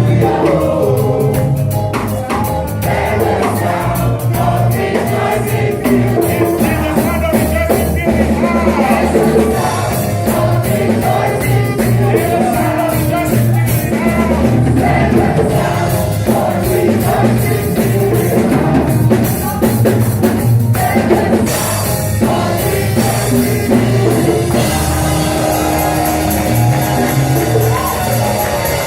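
Gospel worship music played live: singing over a band with drum kit, loud and steady.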